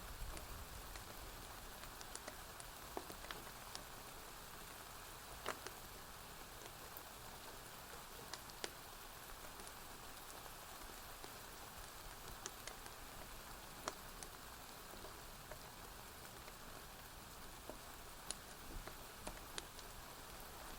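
Steady, quiet rain hiss with sharp pops from a crackling wood fire, scattered irregularly about every second or two.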